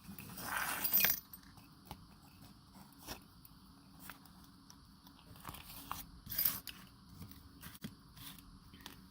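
Craft pieces and tools being handled on a work table: a rustle in the first second, scattered light clicks and taps, and another brief rustle about six and a half seconds in.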